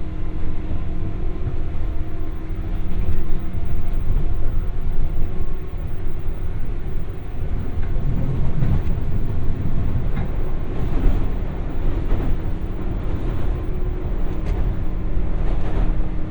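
JR West 201 series electric train running at speed, heard inside the MoHa 201 motor car: steady rumble of wheels on rail with a faint motor hum. About halfway through the sound swells as the train runs onto the Fourth Yamato River Bridge, followed by a run of sharp rail clicks.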